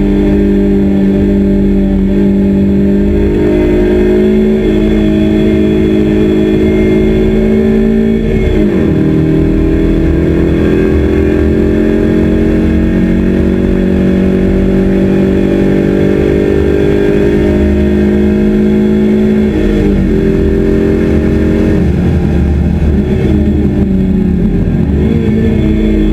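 Honda Civic's 1.8-litre R18 four-cylinder engine pulling hard at full throttle, heard onboard, its pitch climbing slowly as the car gathers speed. The pitch dips briefly twice, about eight seconds in and about twenty seconds in, then climbs again, over a steady rumble of tyres and road.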